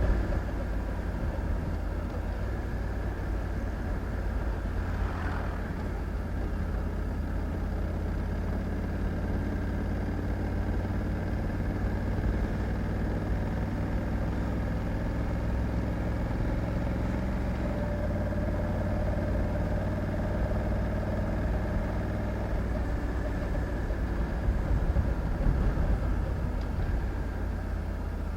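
Honda Africa Twin 1100 DCT's parallel-twin engine running steadily, with a low, even hum and only a slight change in pitch about two-thirds of the way through.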